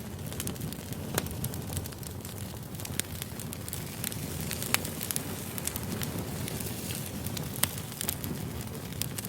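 Wood campfire burning, crackling with scattered sharp pops, a few of them loud, over a low steady rush of flame.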